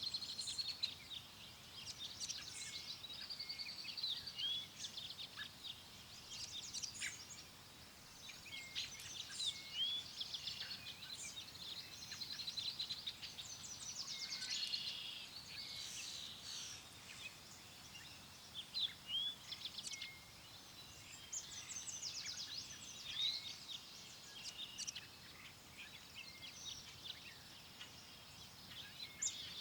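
Birdsong: several small birds singing and chirping at once, with overlapping whistled phrases and quick trills, over a faint steady background hiss.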